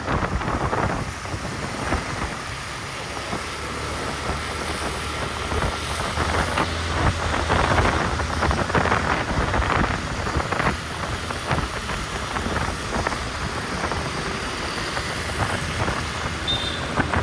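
Wind buffeting the microphone on a moving motorbike, over the low, steady hum of the engine and road noise. The gusts swell about halfway through.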